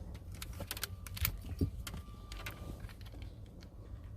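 Scattered small clicks and rattles of a tester and wiring being handled, over a steady low hum.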